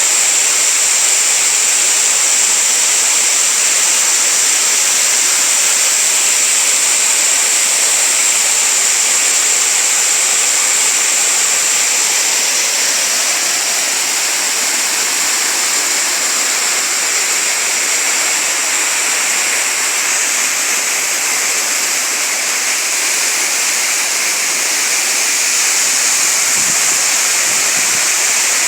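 Waterfall: water falling and rushing in a steady, loud hiss.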